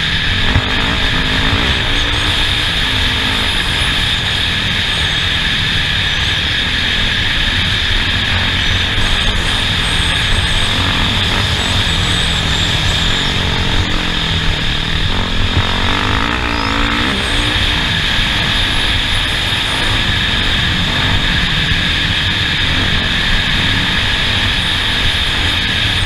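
An off-road race vehicle's engine running as it is driven around the track. Its pitch rises and falls with the throttle under a steady rushing noise.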